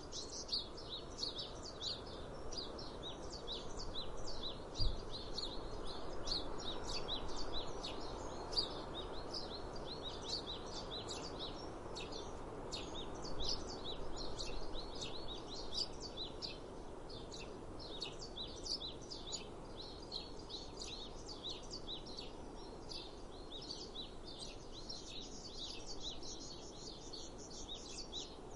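Many small birds chirping at once, a dense run of short high chirps, over a steady low rushing background. A single dull thump sounds about five seconds in.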